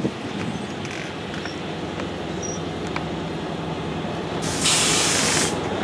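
Diesel commuter train running steadily with a low hum. About four and a half seconds in, a loud burst of compressed-air hiss lasts about a second.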